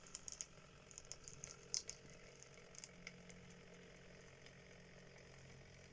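Old Hornby OO gauge locomotive slow running on DC, very quietly: a scatter of small ticks and crackles over the first few seconds, then a faint steady motor hum.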